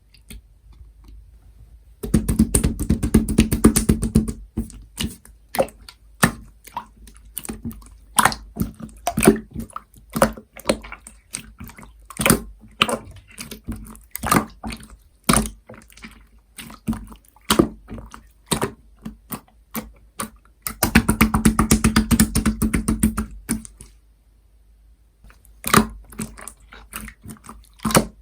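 Hands squishing, pressing and stretching slime: irregular wet pops and clicks, with two spells of fast, dense crackling about two seconds in and again near the end.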